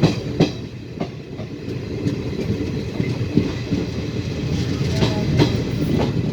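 Train running along the track with a steady rumble, its wheels clacking sharply over rail joints about once a second, some clacks coming in quick pairs.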